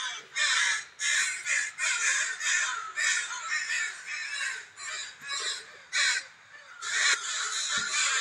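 Crows cawing in a rapid run of short, harsh calls, about two a second, with a brief lull late on.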